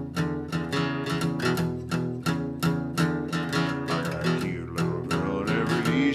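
Acoustic guitar strummed in a steady rhythm, about four strokes a second, playing the intro to a country song; singing comes in at the very end.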